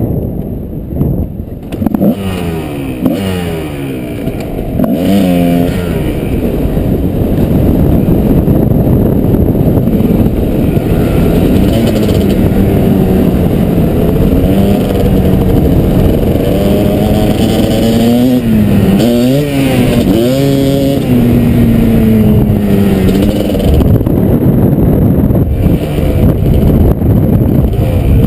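Kawasaki KDX220 two-stroke single-cylinder dirt bike engine riding along, revving up through the gears a few seconds in, then holding a fairly steady pitch. The pitch drops and climbs again about two-thirds of the way through, then eases off near the end.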